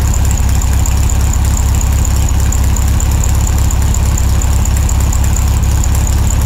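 Electric buffer running steadily against a canoe hull, with a constant high whine over a fast, even low throb, as heard in sped-up footage.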